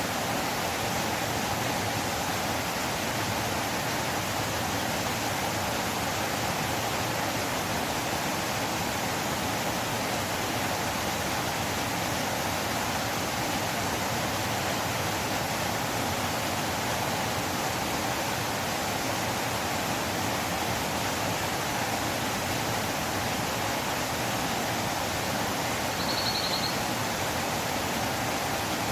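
Flowing river water making a steady rushing sound. A brief high chirp comes in near the end.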